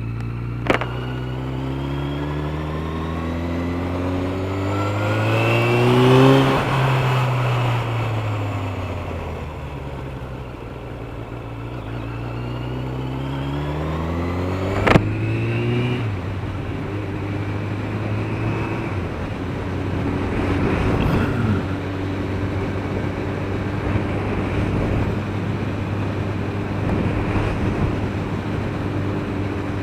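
Suzuki RF900R's inline-four engine heard while riding, with a thin high whistle: the note climbs for about six seconds, falls away, climbs again, then drops sharply about fifteen seconds in and holds steady at cruising pitch.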